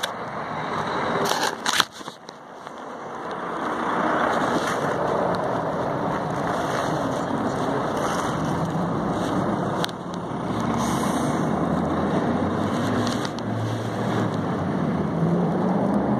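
A bus arriving: its engine and road noise build over the first few seconds, then run steadily with a low engine hum. A couple of sharp clicks come just before the build.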